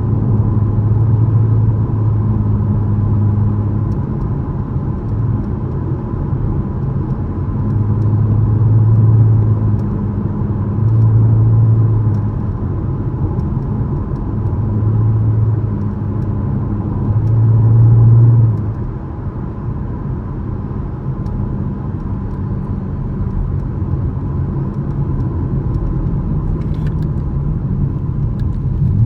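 2013 Chevrolet Camaro LS's 3.6-litre V6 engine running under way, with road noise. The engine drone swells five or so times over the first eighteen seconds, then settles to a steadier, quieter cruise.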